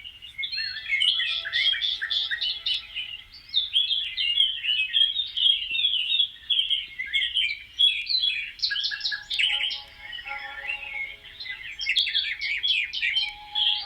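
A chorus of many small birds chirping at once: dense, overlapping short high chirps with no let-up.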